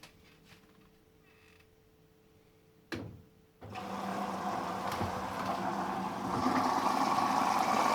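Hoover Vision Dynamic DYN9154DBX washing machine starting its test cycle: a short clunk about three seconds in, then water begins filling through the inlet with a steady rushing sound and a low hum that slowly gets louder.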